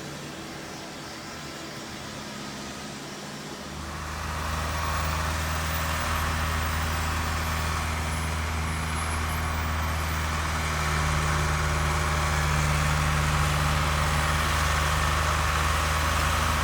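Engine of a snow-removal machine running steadily. It grows louder about four seconds in, when a rushing noise joins the hum, and louder again later on.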